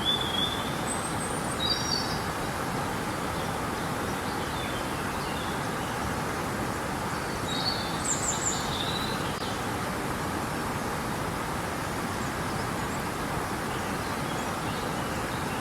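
River water flowing with a steady rush, with birds chirping a few short high calls near the start and a cluster about halfway through.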